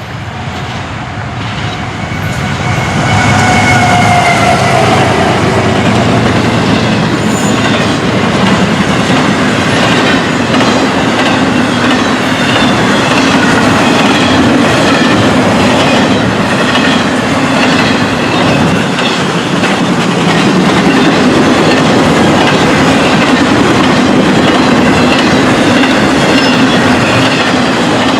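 A train passing close by: wheels rumbling and clattering over the rail joints in a steady, loud stream, growing louder over the first three seconds. A few thin squealing tones sound early on.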